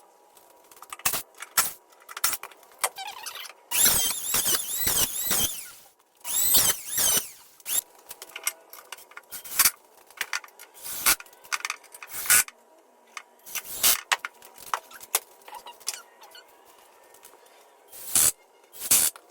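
Knocks, clicks and clatter of hand tools on a wooden drawer frame as a support leg is taken off and shifted. There are two stretches of high, wavering squeaking, about four and about six and a half seconds in.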